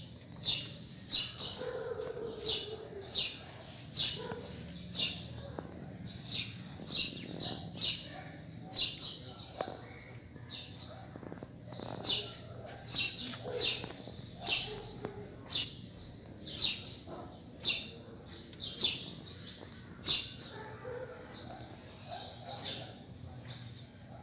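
Small birds chirping: short, high chirps repeating about once or twice a second, over a faint steady low hum.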